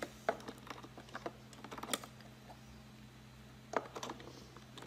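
Faint, scattered plastic clicks and taps as the solution tube of a Hoover Power Scrub Elite carpet cleaner's hose attachment is worked into its port on the machine, the firmest clicks about two seconds in and near the end.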